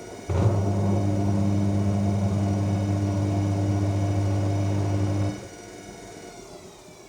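AEG washing machine's drain pump buzzing steadily for about five seconds during the final spin. It starts and stops abruptly over the drum motor's steady whine. Near the end the motor whine falls in pitch as the drum slows.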